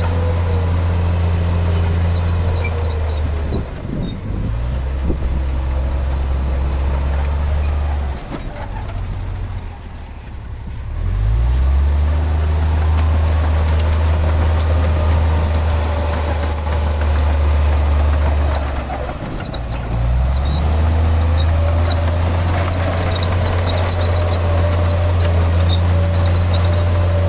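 Heavy diesel engine of earthmoving machinery running hard under load with a steady low drone. The drone drops out briefly about four seconds in, falls away for a few seconds around the middle, dips again about two-thirds of the way through, and each time climbs back to full load.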